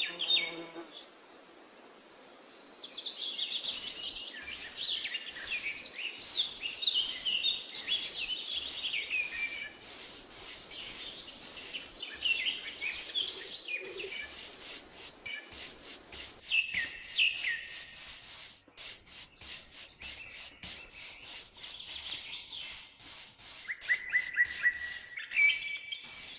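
Birds chirping and twittering in quick short calls, over a run of short rubbing or scraping strokes that keep coming through most of the stretch.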